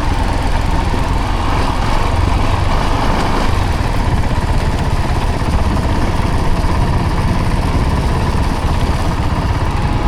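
Off-road vehicle engine running steadily while riding a rough trail, with a low rumble.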